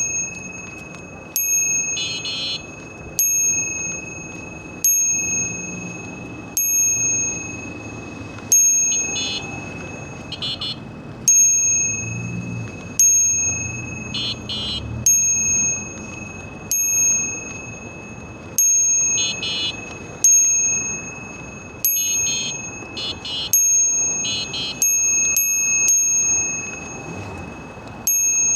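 A bicycle bell dinging again and again at irregular intervals, each ding ringing on and fading before the next. Brief rattling clusters come in between some of the dings.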